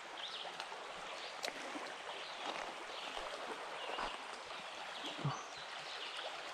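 Creek water running steadily, with faint high chirps scattered throughout and a short knock about five seconds in.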